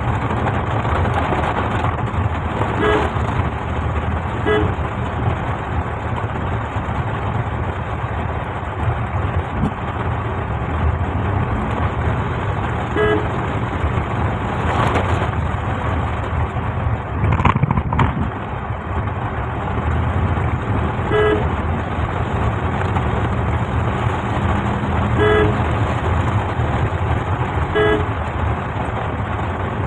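Steady rain and road noise heard from inside a moving car in heavy rain, with short vehicle horn toots from the traffic about six times and a passing whoosh around the middle.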